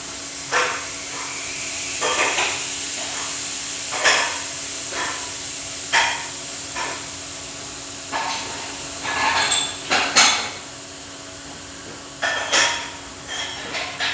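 Hammer blows in a truck-tyre vulcanising job, struck one at a time every second or two with a quick run of blows about ten seconds in, over a steady machine hum.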